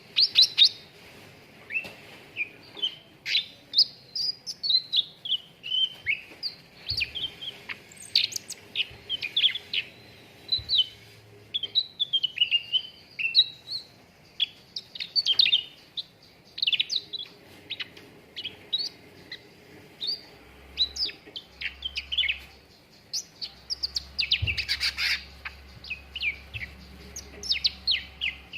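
Cucak ranting bird singing: a rapid, continuous string of short, high chirps and quick up-and-down whistled notes, used as a lure song to prompt other birds to sing.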